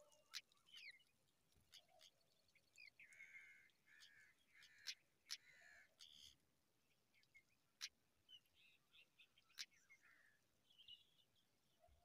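Faint bird calls: a run of short repeated chirps a few seconds in and a few thinner, higher calls later, with scattered sharp ticks.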